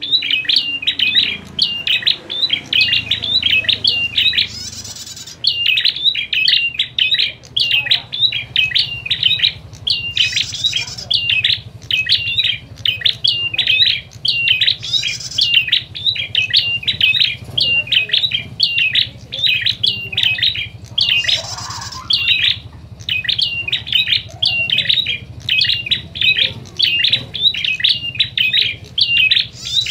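Prenjak (prinia) birds giving fast, agitated chattering calls in a constant stream. These are the noisy 'fighting' calls used to lure and excite other prenjak. A short hissing burst cuts in a few times, and a faint low hum sits underneath.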